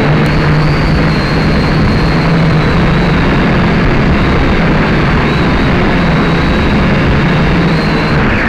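Syma X5C quadcopter's motors and propellers whining steadily, heard through its onboard camera's microphone, with heavy wind rumble on the mic. There is a thin high whine that wavers slightly in pitch over a low hum.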